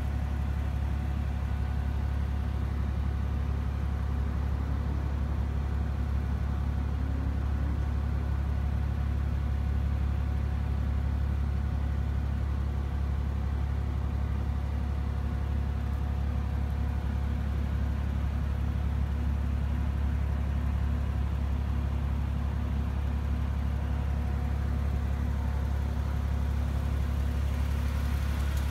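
Mercedes-AMG G65's 6.0-litre twin-turbo V12 idling: a steady low rumble that holds level throughout.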